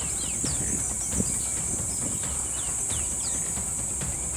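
Bush ambience: a steady high-pitched insect drone with many short, quick bird chirps scattered over it, above a steady low rumble.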